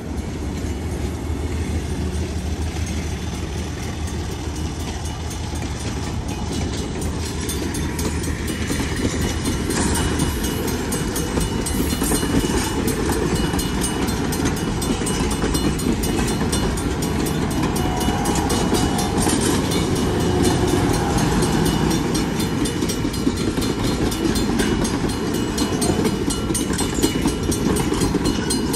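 Napa Valley Wine Train's diesel locomotive and passenger cars passing: a steady low engine drone in the first few seconds, then, from about eight seconds in, wheels clicking and clattering over the rails.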